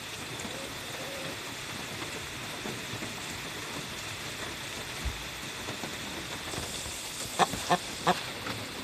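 Chicken giving three short clucks near the end, over a steady background hiss.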